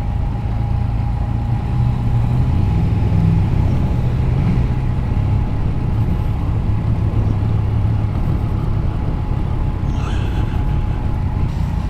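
Motorcycle engine running at low speed, its note wavering a little as the bike slows and moves off again. A faint steady whine sits above it.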